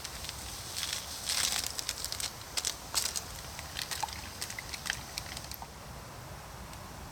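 Small wood campfire crackling and popping with irregular sharp snaps, busiest in the first five or so seconds.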